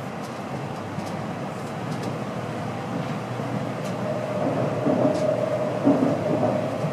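Cabin noise inside an N700A Tokaido Shinkansen car on the move: a steady rumble of wheels and rushing air that grows a little louder, with a faint steady whine joining about four seconds in.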